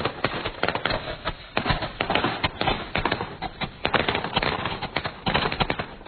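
Fireworks going off: a dense, irregular run of sharp bangs and crackles from shells fired out of a handheld launcher tube and bursting overhead.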